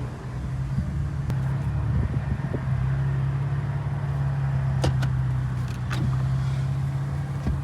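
Infiniti Q50's engine idling steadily with a low, even drone, with a few faint light clicks over it.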